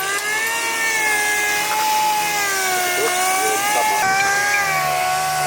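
A machine's motor running with a steady whine that wavers slightly in pitch.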